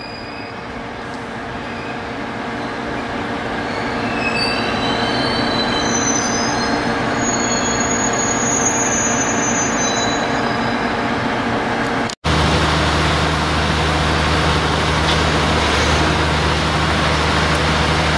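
A train draws near and grows louder, with high whining tones that shift in pitch over the rumble. About twelve seconds in, the sound cuts abruptly to a steady low drone with rushing noise, as of a train running.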